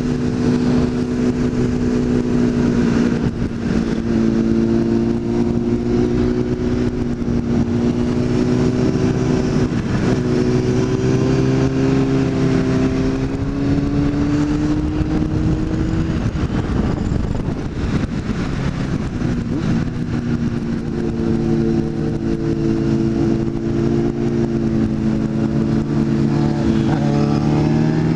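Sport motorcycle engine running at steady cruising revs, heard from on board the bike with wind noise on the microphone. The revs drop and pick up again a few times, and climb near the end as the bike accelerates.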